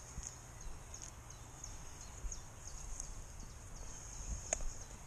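Birds calling in woodland: a run of short, high, falling notes, about three a second, over a steady high-pitched hiss, with soft low thumps of walking underneath.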